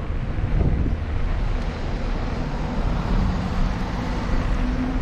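Wind buffeting the microphone and road noise on a moving bicycle, a steady low rumble. A faint hum comes in about halfway through and rises slightly in pitch.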